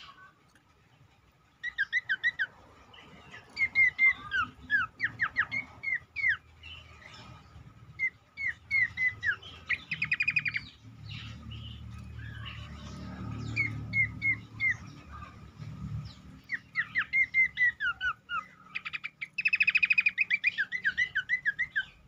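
Cingcoang, a babbler, singing a lure song: phrases of quick, downward-slurred whistled notes, broken by fast rattling trills twice. The song starts about a second and a half in.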